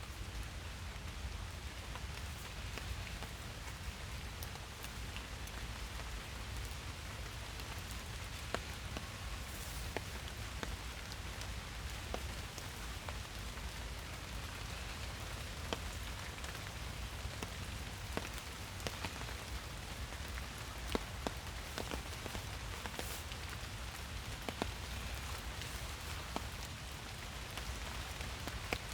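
Steady rain falling in a forest, an even hiss with scattered sharp taps of individual drops hitting nearby surfaces, over a low background rumble.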